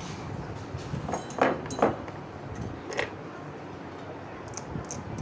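A few short knocks and clicks over a steady background noise: two louder ones between one and two seconds in, another at about three seconds, and fainter ticks near the end.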